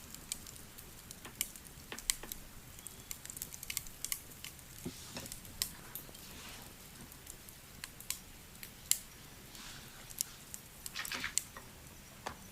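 Crackling wood fire: irregular sharp pops and snaps over a low hiss, with a couple of brief scratchy rustles about six and eleven seconds in.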